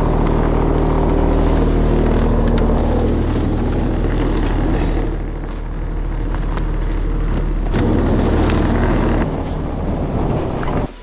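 Plow truck's engine running with its sander going, emptying old sand out of the hopper: a steady mechanical drone with a rough rattling layer. It dips briefly about halfway through and eases off near the end.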